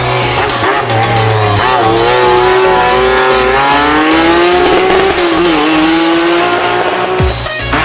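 Race car engine revving, its pitch rising and falling, with tyre squeal, laid over background music with a steady beat.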